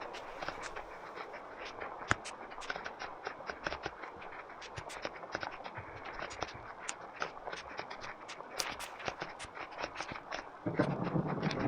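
Heavy rain falling, with many sharp, irregular drop ticks over a steady hiss. About a second before the end a much louder, deeper rumble of thunder and heavier rain sets in suddenly.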